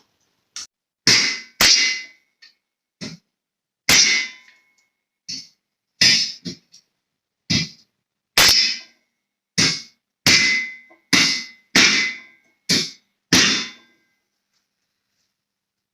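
Hammer striking steel: about eighteen irregular blows, roughly one a second, each with a short metallic ring, stopping a couple of seconds before the end.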